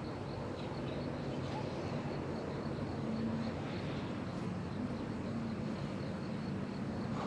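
Honeybees buzzing around an open hive in a steady hum, the pitch wavering slightly as bees fly by.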